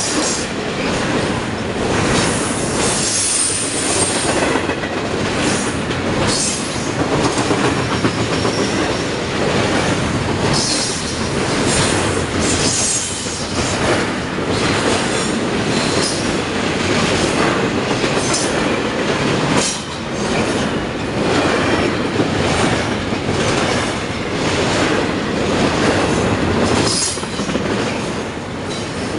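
Freight train cars rolling past, their steel wheels clattering over the rail joints, with a brief high wheel squeal now and then.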